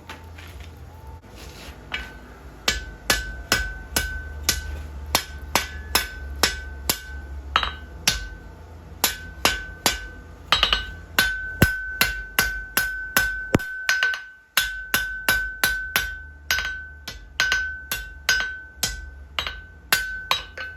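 Blacksmith's hammer striking iron on an anvil in a long run of blows, about two to three a second, each with a clear ringing tone from the anvil.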